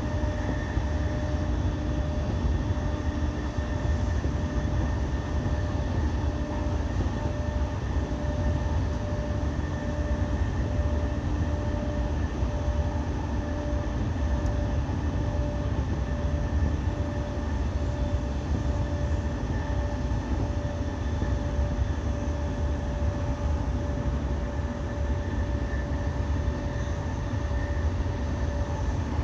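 E217-series electric multiple unit running at a steady speed: a continuous rumble of wheels on rail, with a motor whine held at one pitch throughout.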